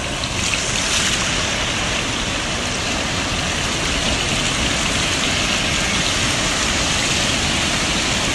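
Steady rush of sea surf breaking and washing, with wind rumbling on the microphone.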